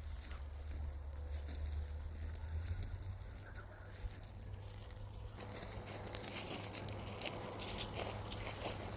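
Rustling and crunching of footsteps through dry grass over a low rumble, growing louder and more crackly about five seconds in.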